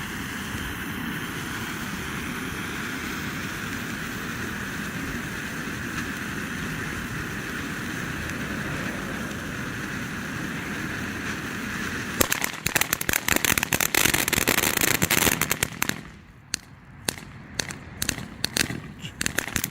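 Red Lantern 'Steam Locomotive' firework fountain spraying sparks with a steady hiss. About twelve seconds in it breaks into dense crackling, which thins to scattered crackles near the end.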